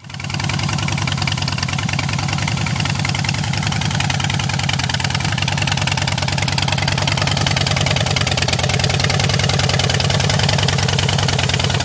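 A 2008 Harley-Davidson Fat Boy's 1584cc counterbalanced V-twin running steadily at idle through aftermarket Vance & Hines exhaust pipes, with a fast, even beat of exhaust pulses.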